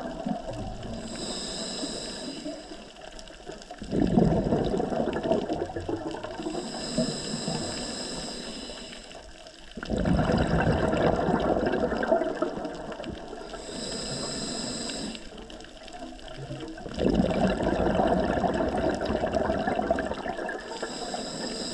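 Scuba diver breathing through a regulator underwater. A high hiss on each inhale alternates with a burst of rushing, bubbling exhaust about every six to seven seconds, three exhales in all.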